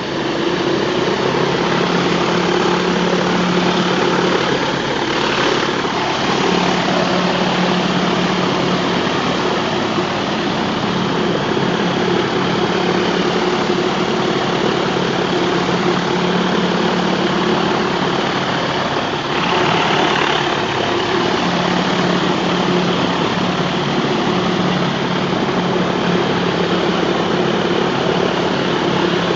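Pressure washer running steadily: the engine's even drone over the hiss of the high-pressure water jet blasting concrete. The engine note dips briefly twice, about five seconds in and again near twenty seconds.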